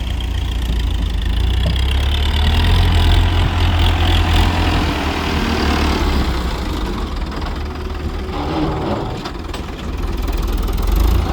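Farm tractor's diesel engine running loud and steady under load, with a high whine that rises and falls over the first few seconds.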